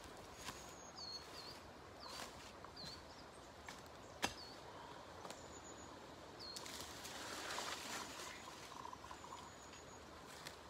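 Small woodland birds giving thin, high-pitched calls every second or so. There are a few light clicks, a sharp tap about four seconds in, and a soft rustle around seven to eight seconds in.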